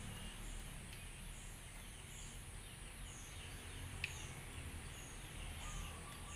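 Small birds chirping outdoors in short, high calls that repeat about once a second, over a faint low background rumble, with one light clink about four seconds in.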